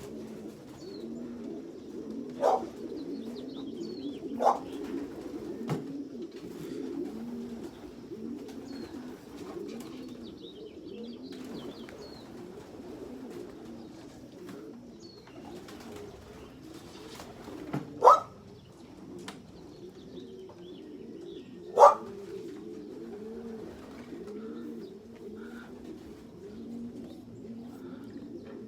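Pigeons at a racing-pigeon loft cooing continuously, many overlapping coos at once. A few short, loud rising calls from another animal cut through, the loudest two in the second half.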